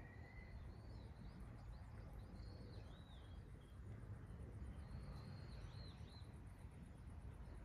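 Small songbird chirping in two short runs of quick rising and falling notes over a faint steady low background noise.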